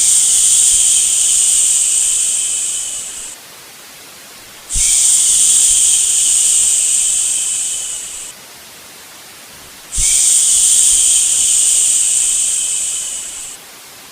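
A human 'shhh' shushing sound, repeated three times: each shush starts suddenly, lasts about three and a half seconds and tapers off, with a short pause of about a second between them. A quieter steady hiss stays under the pauses.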